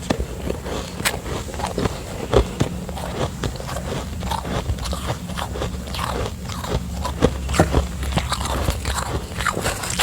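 Close-up biting and chewing of refrozen soft ice, a dense run of sandy, crackly crunches.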